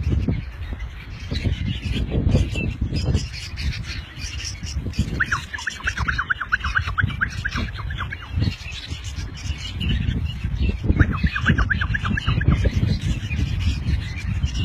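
Birds squawking and calling, with two runs of rapid repeated high notes, one about five seconds in and one about eleven seconds in, over a low rumble.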